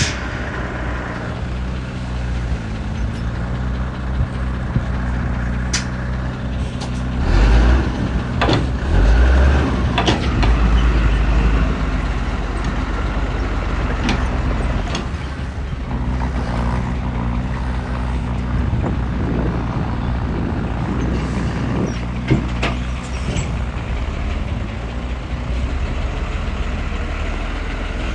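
Heavy diesel earthmoving machinery running steadily at a low rumble, with scattered sharp clanks and knocks. It grows louder and heavier for a few seconds about a quarter of the way in.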